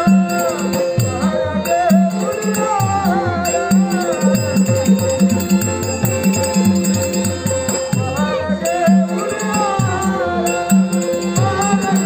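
Traditional Konkani Dashavatar stage music: a wavering melody over a steady drone, with quick hand-drum strokes whose bass notes slide downward and small cymbals ticking steadily.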